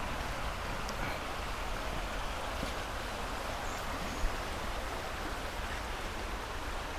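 Steady rushing noise outdoors, even and unbroken.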